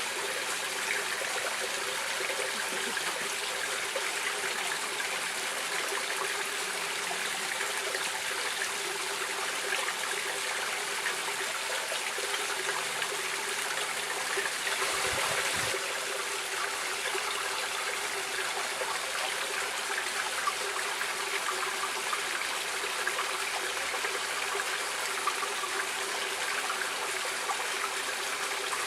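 Running water of a stream, flowing and splashing steadily, with a slightly louder surge about halfway through.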